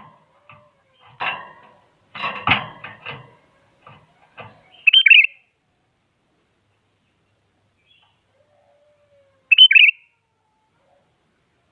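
Sooty-headed bulbul giving short, loud call phrases twice, about four and a half seconds apart, with a stretch of quieter, rougher noisy sounds before the first.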